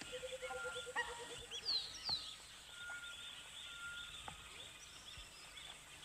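A hammerkop pair calling: a rapid run of about a dozen short notes in the first two seconds, with chirps and quick falling whistles, then a few short whistled notes over faint outdoor background.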